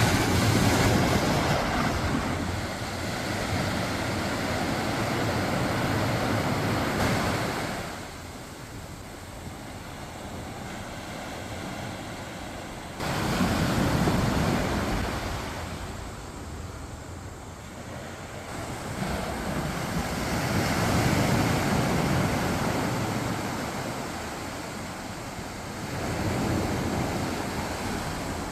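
Gentle waves washing up onto a sandy beach: a rushing hiss that swells and dies away as each wave comes in, several times, with one wave arriving sharply about halfway through.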